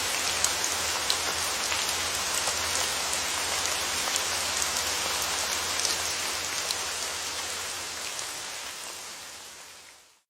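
Steady rain falling, a dense hiss with the clicks of single drops heard through it. It fades out over the last few seconds.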